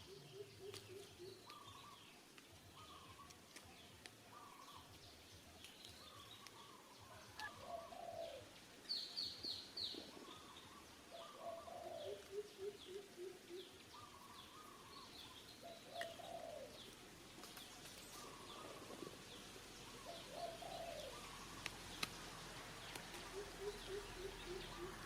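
Faint birdsong from several birds: a low run of about five quick notes comes back three times, about every eleven seconds, among other birds' short repeated calls and high chirps.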